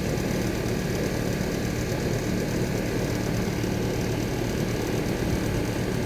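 Rheem central air conditioner's outdoor condensing unit running steadily: a low compressor hum under the rush of the condenser fan.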